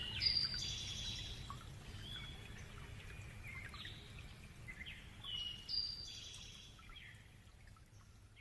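A songbird singing the same short whistled phrase twice, once at the start and again about five seconds later, over a low steady rush of running water. Everything fades out toward the end.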